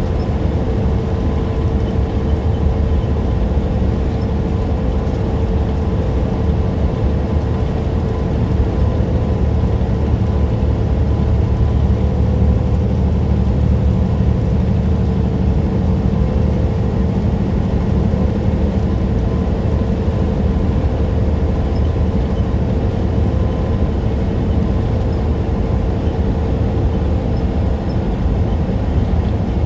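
Semi truck driving at a steady speed: a continuous low engine and road rumble with a constant steady hum, no change in speed or gear.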